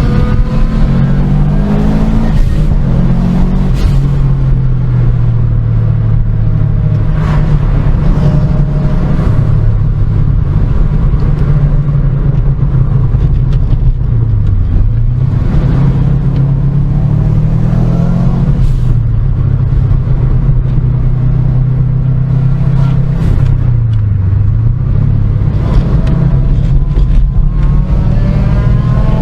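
Car engine running under way, a loud steady drone whose pitch dips and climbs back again about halfway through and about four-fifths through.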